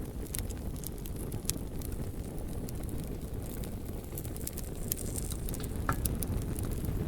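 Bonfire burning: a steady low roar of flames under scattered sharp crackles and pops of burning wood, with a brief higher hiss about six seconds in.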